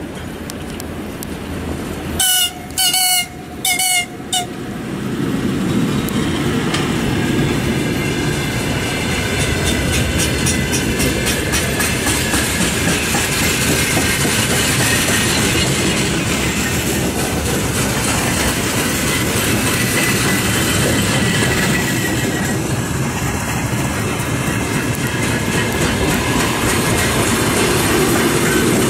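VL11 DC electric freight locomotive sounding three short horn blasts as a greeting, about two to four seconds in. After that comes the steady rumble of a long freight train rolling past, with clickety-clack from the wheels over the rail joints.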